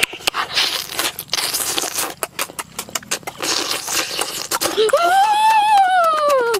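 Close-up chewing of a grilled chicken wing: wet smacks, clicks and crunches of mouth and fingers on the meat. Near the end comes one drawn-out vocal sound from the eater, rising and then falling in pitch.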